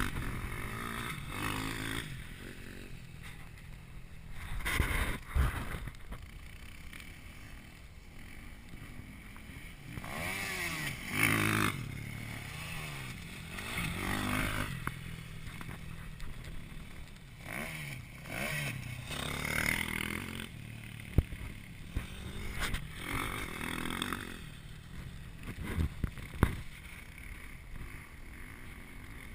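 Four-stroke KTM SX-F motocross bikes revving over jumps, the engine pitch rising and falling in several bouts as they come past, with quieter stretches of wind-like noise between. Two sharp clicks come in the second half.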